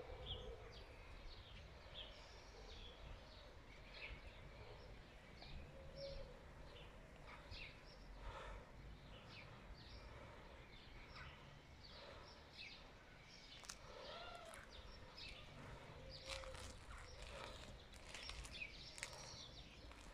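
Faint outdoor ambience: small birds chirping repeatedly throughout, over a low steady background rumble.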